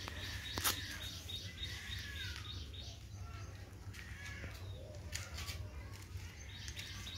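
Birds chirping, with a quick run of short repeated chirps in the first second and a half and a few falling calls later, over a steady low rumble. A sharp click about two-thirds of a second in.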